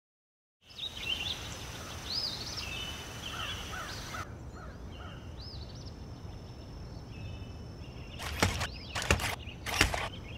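Birds chirping and singing over a steady outdoor background; from about eight seconds in, a few sharp clicks.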